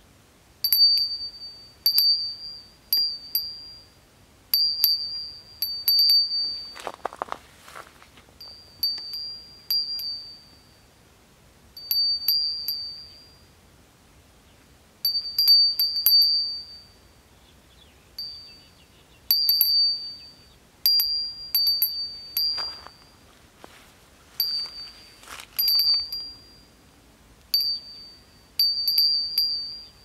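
A bird repeating a clear, high ringing note, each starting sharply, about once a second in runs broken by short pauses. A few brief rushing noises come in between, about seven seconds in and twice in the last third.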